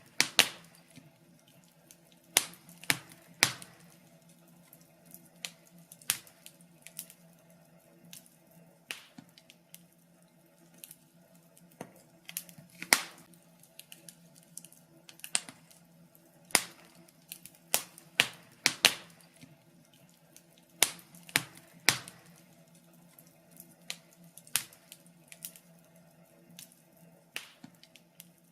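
Fireplace fire crackling: irregular sharp pops and snaps, a few of them loud, over a faint steady hum.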